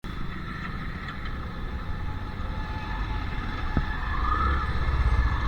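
Royal Enfield Classic 350 Reborn's single-cylinder engine running, a low rumble that grows steadily louder.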